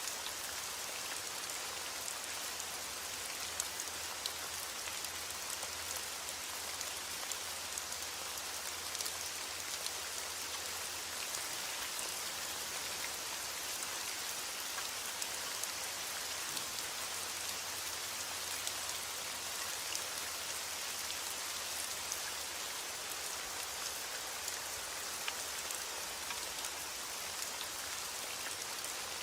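Steady rain falling and pattering on a surface, with many small sharp drop ticks over an even hiss.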